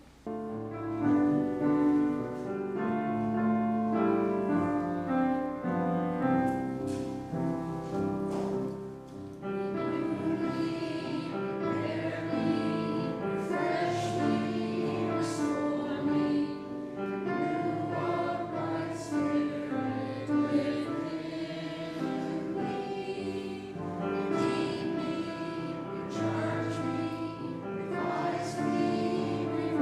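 Choir singing slow church music in held, sustained notes; it starts suddenly right after a brief quiet.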